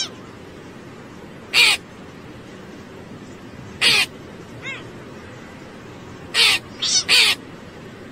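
A crow cawing in short, harsh calls, about six of them at uneven spacing, the last three in quick succession.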